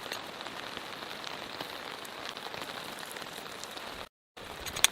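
Steady rain falling and pattering on surfaces. It cuts out completely for a moment near the end, then a few sharp taps follow.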